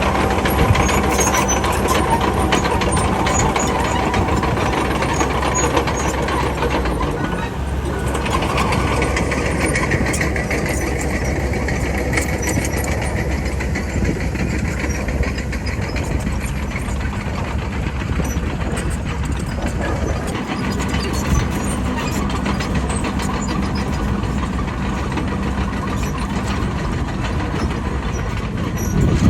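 Bulldozer's diesel engine running under load, with a constant rapid clatter of knocks. Its steady low note fades about eight seconds in and returns around twenty seconds.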